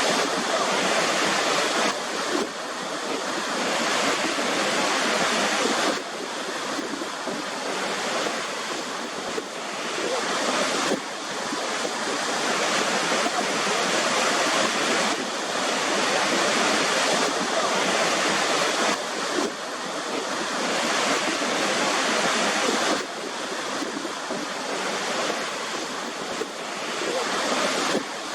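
Waterfall rushing: a steady, dense roar of falling water that shifts in level and colour abruptly every four or five seconds.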